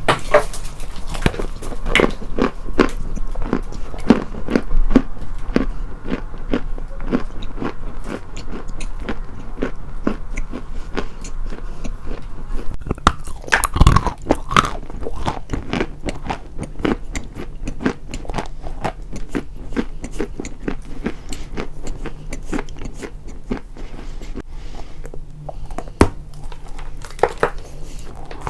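Close-miked biting and chewing of something hard and crunchy: a dense run of irregular crunches and crackles, with a louder burst of cracking about halfway through.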